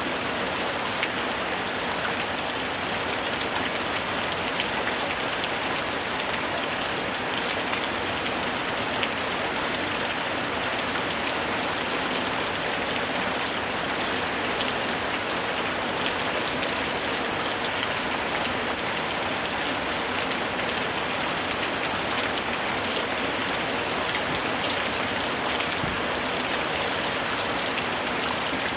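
Heavy rain drumming steadily on a tin roof, a dense hiss of many small drop impacts with no letup.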